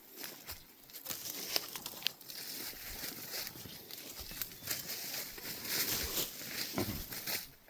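Irregular rustling and crunching of dry leaves and undergrowth, with scattered crackles and snaps, as of someone moving through brush.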